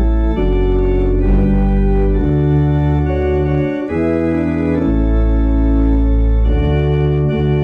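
Organ playing offertory music: slow sustained chords over held low bass notes, changing every second or two.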